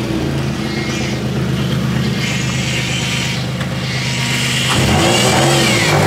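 Infiniti G35's VQ35 V6 engine, just started cold, running steadily while the car moves off, then rising in pitch as it is revved about five seconds in.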